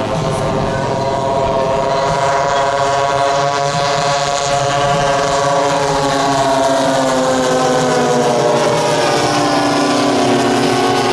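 Giant-scale radio-control model airplane's propeller engines running steadily, with several pitches sounding together. The pitch drifts slowly and drops noticeably near the end.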